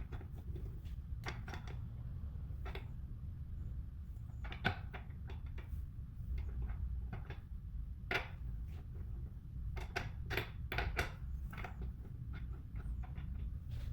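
Scattered light clicks and knocks of hard objects being handled, irregular and clustered in places, over a steady low rumble.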